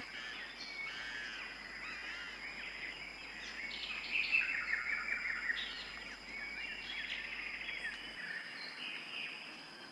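Rainforest ambience: many birds chirping and whistling in short warbling calls, busiest about four to six seconds in, over a faint steady high whine.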